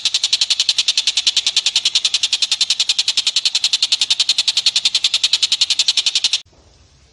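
A rapid, even chattering call of short high notes, about a dozen a second, that stops suddenly about six seconds in.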